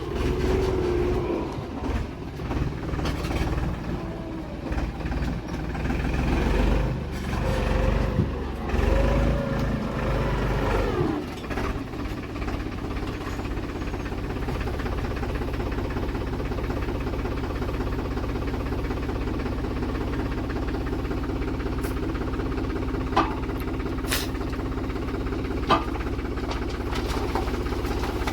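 Diesel engine of a JCB 3DX backhoe loader revving up and down for about the first ten seconds as it works, then settling into a steady idle. Three short sharp clicks come near the end.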